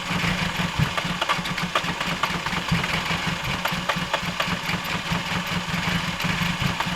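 A car's starter motor cranks a frozen engine with a fast, steady churning rhythm for several seconds, and the engine does not catch; the cranking stops right at the end. This is a failed cold start in hard frost.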